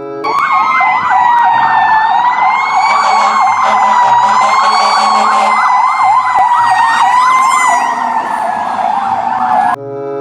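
Emergency vehicle sirens sounding together: a held, slowly wavering wail with a fast up-and-down yelp over it. They cut off suddenly near the end.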